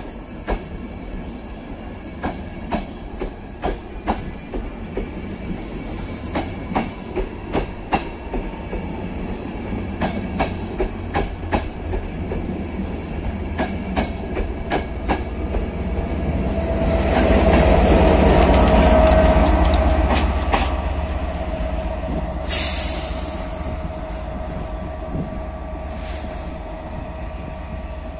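Transport for Wales Mk4 coaches pulling out, wheels clicking evenly over the rail joints. The Class 67 diesel-electric locomotive at the rear then passes, loudest, with a deep rumble and a steady engine drone, and fades away with a few short high hisses.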